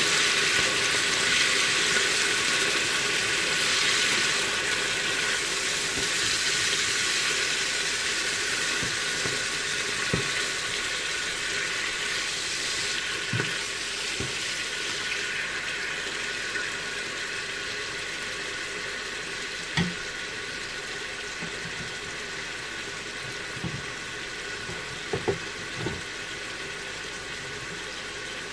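Turkey pieces sizzling in hot oil in a frying pan, a steady hiss that slowly dies down, with a few short clicks and taps of a spatula turning the meat against the pan.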